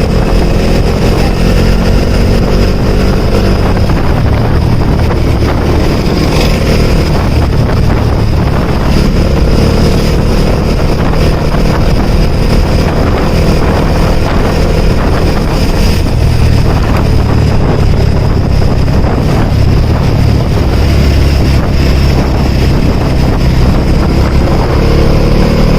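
Bajaj Dominar's single-cylinder engine running steadily while the motorcycle is ridden, with heavy wind noise on the microphone. Its pitch shifts with the revs near the start and again near the end. It is running on fresh 10W-50 fully synthetic oil, which the rider says has largely cured an earlier engine noise.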